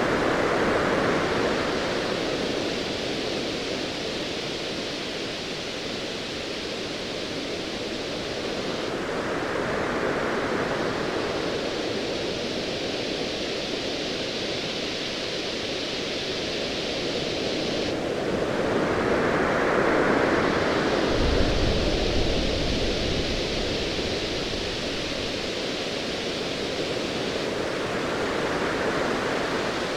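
Ocean waves surging and washing in about every ten seconds over a steady hiss of surf. About two-thirds of the way through, a low rumble of distant thunder comes in for a few seconds.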